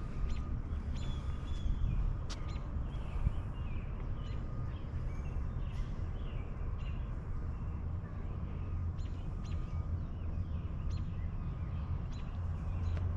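Outdoor ambience of birds chirping here and there over a steady low rumble.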